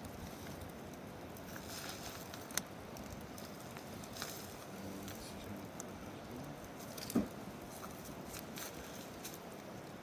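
Wood campfire crackling, with scattered sharp pops and snaps over a steady hiss; a louder knock about seven seconds in.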